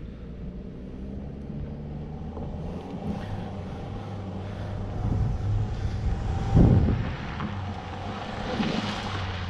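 Vehicle engine revving under load as it tries to climb a muddy slope, wheels spinning on summer tyres clogged with mud, an attempt that fails. The engine note rises and falls several times, with a loud thump about two-thirds of the way through and a hiss of spinning tyres and mud toward the end.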